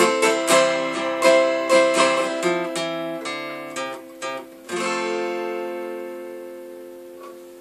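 Acoustic guitar strumming chords, slowing and softening, then a last chord struck a little under five seconds in that is left to ring and fade out, ending the song.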